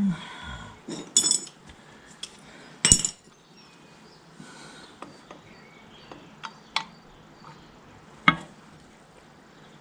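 Small metal hand tools and parts clicking and clinking against tractor brake linkage while a small split pin is worked into place: a string of separate sharp taps, the loudest about three seconds in and another near the end.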